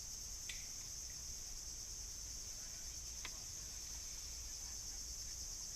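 Steady high-pitched chorus of insects such as crickets, running continuously with a slight pulsing, over a low background rumble; two faint short clicks, about half a second and three seconds in.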